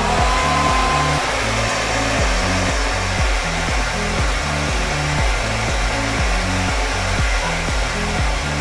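Infinix foldable hairdryer with a diffuser attachment switching on. Its motor whine rises briefly and settles, then it runs as a steady rush of air over background music with a repeating bass line.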